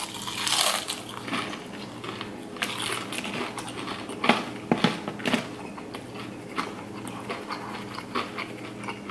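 Close-miked chewing of breaded fried shrimp: irregular crunches and wet mouth sounds, over a faint steady low hum.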